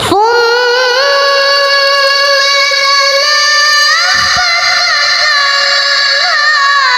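A child's voice in melodic Quran recitation (tilawah), holding one long high note that begins sharply and is decorated with small turns and slides in pitch.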